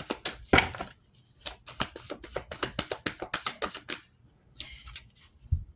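Tarot cards being shuffled by hand: a quick run of clicking taps for about four seconds, then a short rustle and a soft thump near the end.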